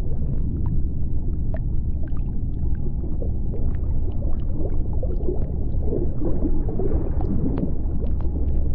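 Underwater ambience: a steady low rumble with scattered sharp clicks and crackles throughout, and a stretch of bubbling gurgles a little after the middle.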